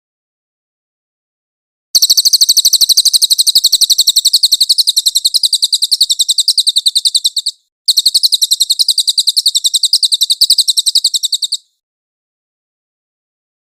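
Cililin songbird calling: a rapid, high-pitched train of evenly repeated chirps, in two long bursts with a brief break between them, starting about two seconds in and stopping shortly before the end.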